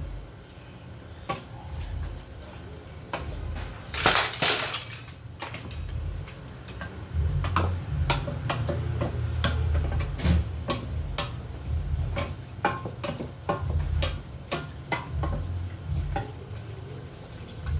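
A utensil stirring and scraping pasta in a cooking pot, with repeated sharp clinks against the pot. There is a brief louder scraping burst about four seconds in.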